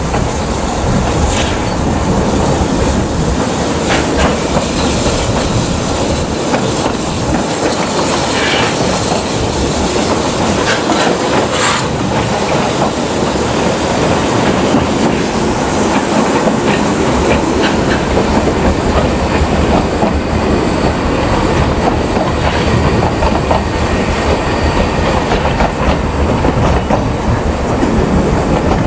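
Narrow-gauge railway train running along the track: a steady rumble of the coaches, with wheels clicking over the rail joints.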